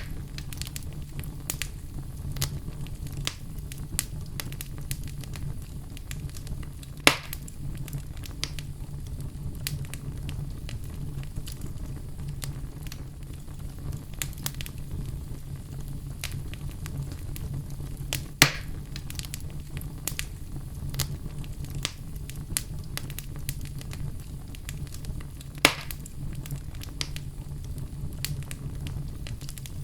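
Wood fire in a fireplace crackling steadily over a low rumble, with frequent small snaps and three louder pops spread through.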